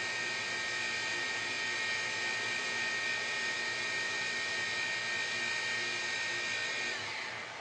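CNC polygon lathe running with a steady, high-pitched whine that holds one pitch, then drops slightly and fades near the end.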